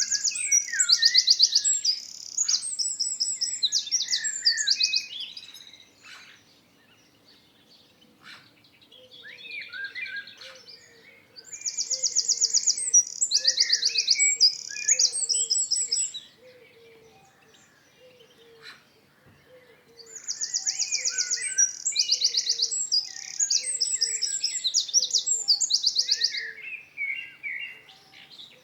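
A songbird singing long, complex songs of rapid trills and whistled notes, in three bouts of about six seconds each with short pauses between. A faint low note repeats about once a second behind the later songs.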